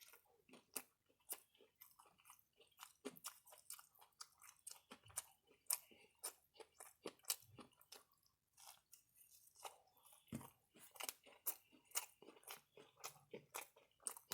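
A person chewing food close to the microphone: quiet mouth sounds broken by many short, sharp crunches and clicks at an uneven pace.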